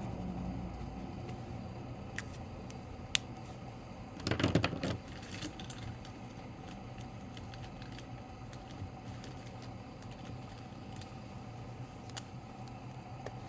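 A few sharp single clicks, then a brief clattering rattle about four seconds in, like small hard objects being handled, over a low steady hum.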